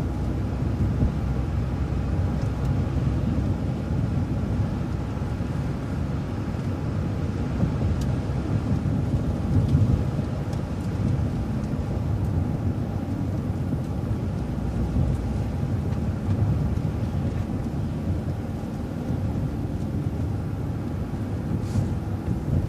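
City bus running along the road: a steady low engine and road rumble heard from inside, with a couple of faint clicks and rattles.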